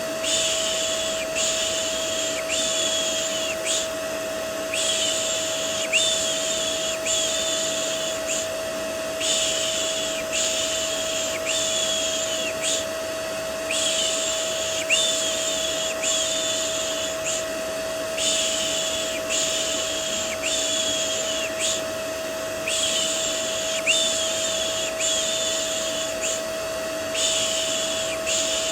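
Vacuum cleaner running steadily with a constant hum, overlaid by a person's soothing 'shh' shushing for a baby: short shushes about one a second, in runs of four or five with brief pauses between runs.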